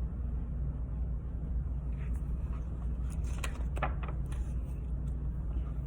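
A steady low background hum, with a few faint soft clicks and rustles from about two to four seconds in.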